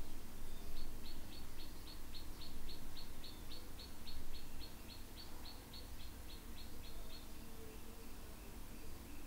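A bird calling from outside: an evenly spaced run of about twenty short, high chirps, roughly three to four a second, lasting about six seconds and stopping a couple of seconds before the end. A steady low hum runs underneath.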